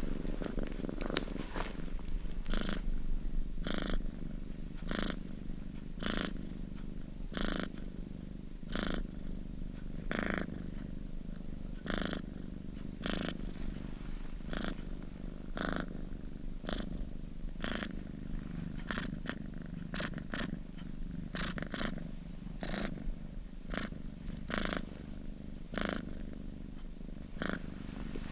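A domestic cat purring steadily, with a breathy pulse about once a second as it breathes in and out.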